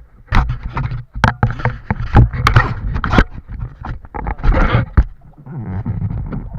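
Banana boat ride over water: irregular splashing and rushing noise with repeated sudden knocks and a heavy low rumble.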